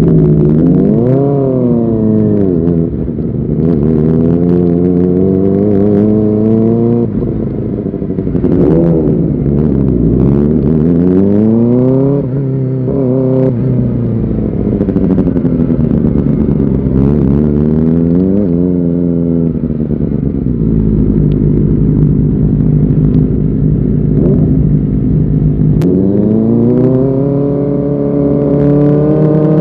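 Kawasaki Ninja ZX-4R's 399 cc inline-four engine revving under way, its pitch climbing and dropping again and again with throttle and gear changes. The pitch holds steady for several seconds before climbing again near the end.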